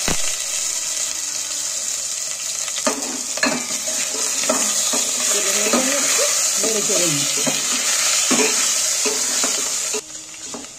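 Chicken pieces and bones sizzling in hot vegetable oil in a stainless steel pot, with a steel ladle stirring and scraping against the pot. The sizzle drops away suddenly near the end.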